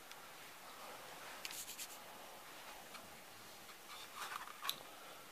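Quiet handling noise: faint rubbing and scratching about one and a half seconds in and again near the end, with one sharp little click just before the end.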